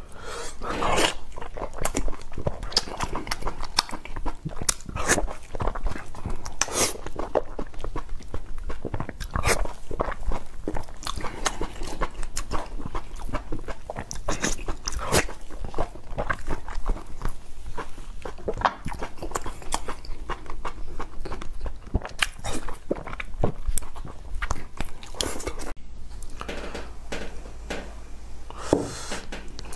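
Close-miked biting and chewing of soft Northeastern Chinese blood sausage dipped in garlic sauce, a run of short mouth clicks and smacks coming one after another.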